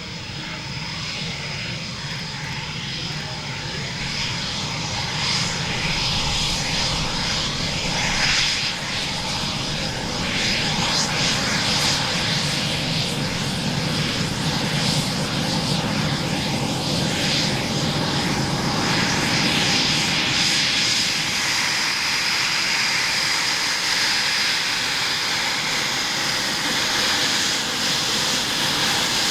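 Jet noise from a Eurofighter Typhoon FGR4's two Eurojet EJ200 turbofans in display flight, growing louder over the first ten seconds or so, then staying loud and steady with a crackling edge.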